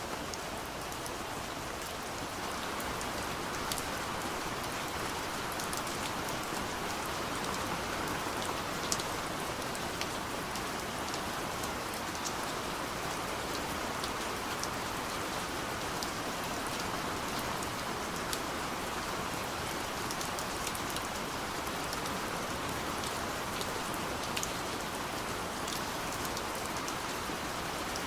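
Steady soft rain falling on a window, an even hiss with scattered sharp ticks of single drops striking.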